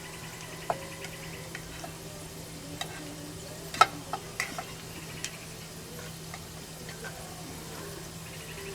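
Chicken gizzards and hearts sizzling as they fry, stirred with a utensil that clicks and scrapes against the cookware every second or so, the loudest click a little under four seconds in. A steady low hum runs underneath.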